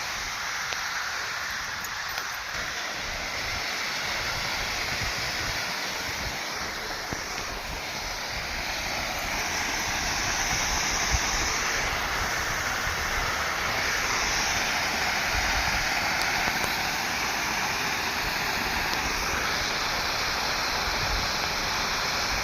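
Steady rush of water jetting from a fire hydrant hose under pump pressure.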